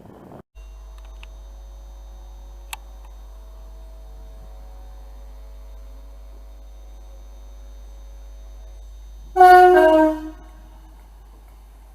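A train's two-tone horn sounds loudly for about a second, a higher note and then a lower one. It plays over a steady hum and a low rumble.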